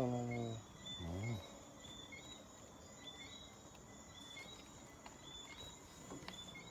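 Night chorus of small chirping animals: a steady high buzz with short, high chirps repeating about once a second, after a brief word near the start.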